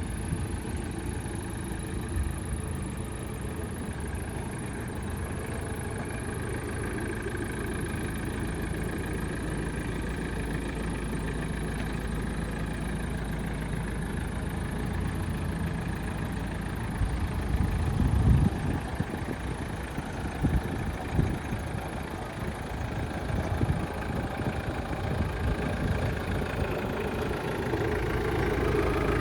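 1986 Mitsubishi Pajero's four-cylinder turbo diesel engine idling steadily, with a few short bumps or knocks about two-thirds of the way in.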